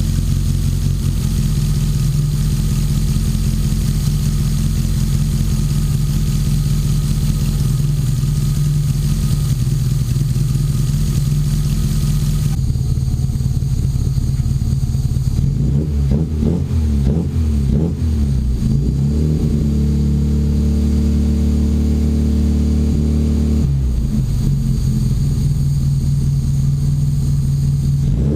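Classic Mini's four-cylinder engine running on a warm-up run after restoration: steady for about the first twelve seconds, then, after an abrupt change, revved with the pitch rising and falling several times, and settling back to a steady run near the end.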